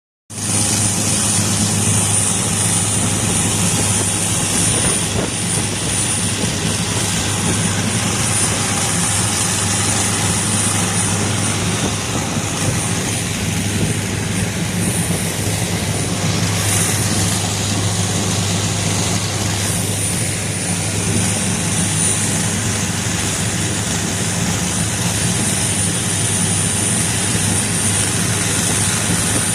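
Longtail boat engine running steadily underway: a loud, constant drone over a steady rushing noise.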